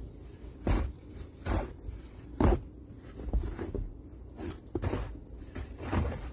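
A series of short knocks or thumps, roughly one a second and a little irregular, over a low steady background.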